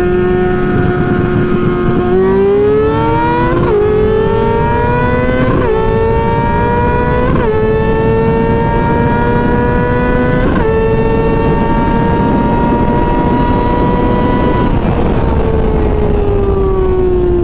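Sportbike engine accelerating hard through the gears: the pitch climbs and drops sharply at four upshifts, holds steady at speed, then falls away as the bike slows near the end. Heavy wind rush runs underneath.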